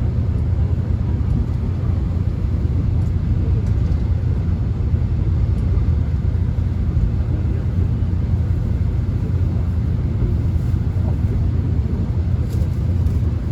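Steady low rumble of a subway train running, heard from inside the passenger car.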